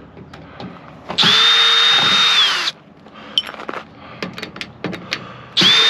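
Power drill-driver with a screwdriver bit running in two bursts of about a second and a half each, backing screws out of a microwave oven's outer shell; the first burst winds down in pitch as the trigger is released. Light clicks and clatter of handling between the bursts.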